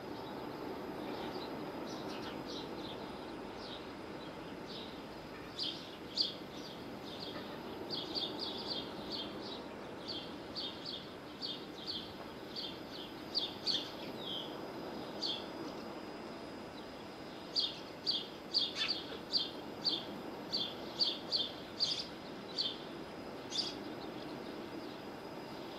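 Short, high chirps from a small bird, repeated in quick runs of about two a second, with a pause of a couple of seconds in the middle, over a steady low rushing background noise.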